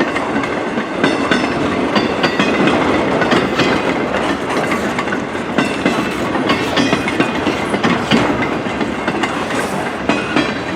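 CN freight train rolling past, its wheels clicking steadily over the rail joints, with brief high squeals here and there.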